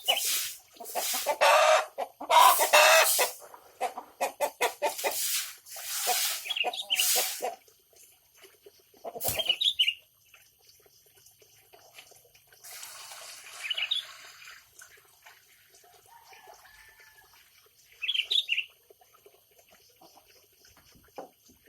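Chicken clucking in a rapid series of loud calls for about the first seven seconds, then a few short high calls.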